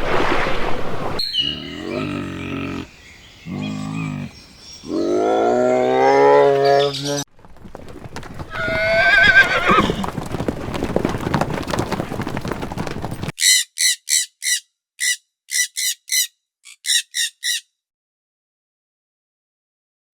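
Horses whinnying and neighing in a run of separate clips, the calls pitched and wavering. They are followed by about ten short, high chirps in quick groups, then silence.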